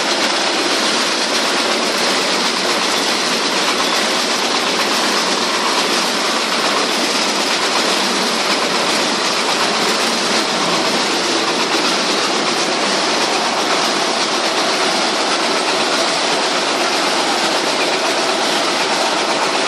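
Wood chipper running, a loud, steady mechanical noise that holds even throughout with no breaks.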